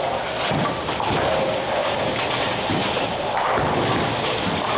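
Bowling alley noise: a steady din with several thuds and crashes of balls and pins, the clearest about half a second in and near the middle.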